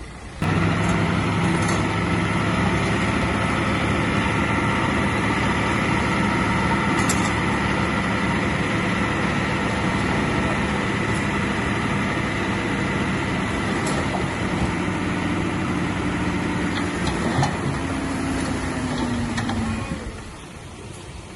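Heavy diesel engine of earthmoving machinery running steadily, coming in suddenly about half a second in. Near the end its pitch falls and it gets quieter.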